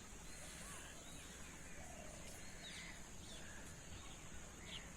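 Faint outdoor ambience: scattered short bird chirps over a steady, high-pitched insect drone.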